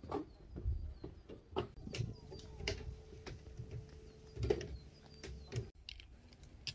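Birds chirping with a faint, repeated high call, over scattered knocks and rustles close to the microphone, with a steady low hum through the middle.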